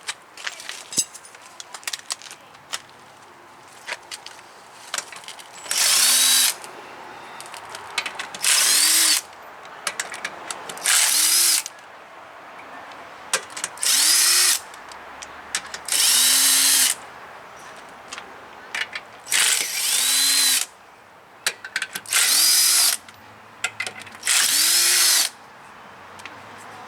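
Power impact wrench run in eight short bursts, about one every two and a half seconds, its motor pitch rising and falling with each pull of the trigger, with small metallic clicks in between. This fits lug nuts or brake hardware being spun off a heavy-duty pickup.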